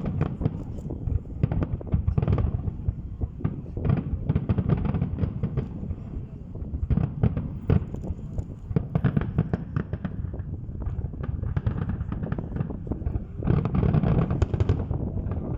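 Fireworks display with shells bursting in rapid, overlapping succession, a steady run of bangs and crackles. It grows denser and louder about thirteen seconds in.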